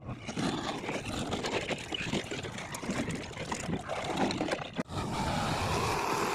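Diesel machinery running, loud and uneven, with a brief break about five seconds in after which the sound is smoother.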